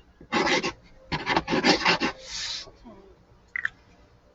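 Quick drawing strokes rasping across paper: one stroke, then a run of fast back-and-forth strokes, then a softer rasp, with a small click near the end.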